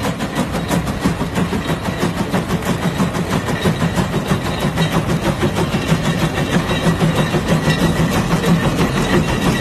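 Tractor engine running steadily, with a rapid pulsing chug.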